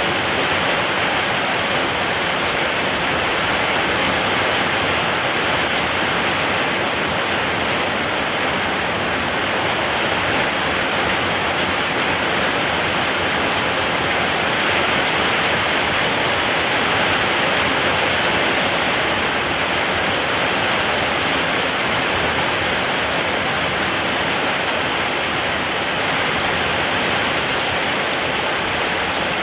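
Steady rain, an even unbroken hiss of falling rain.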